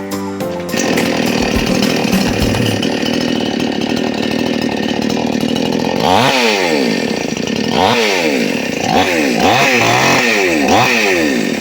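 58cc two-stroke chainsaw running steadily, then revved up and down about five times from about halfway through. A moment of music fades out at the start.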